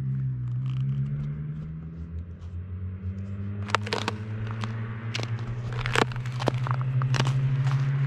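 Loud-exhaust car engine drone, its pitch creeping up as it grows louder, with sharp exhaust pops and crackles from about halfway through.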